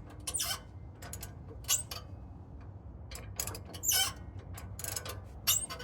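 Hand ratchet wrench clicking in short, irregular bursts as it is worked back and forth on a rusted exhaust flange nut. The seized nut is just starting to break loose.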